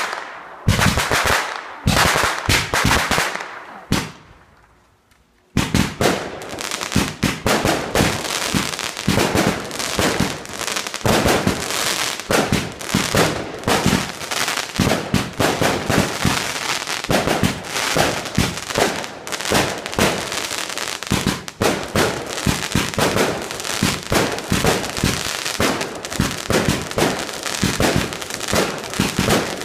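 Fireworks going off: a few bangs with crackling in the first few seconds, a short pause, then from about five seconds in a dense, unbroken run of rapid bangs and crackles.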